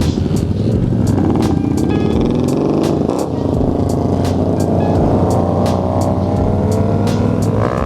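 Motorcycle engines revving and accelerating in a large group ride, the pitch climbing steadily over the second half. Music with a regular beat plays over it.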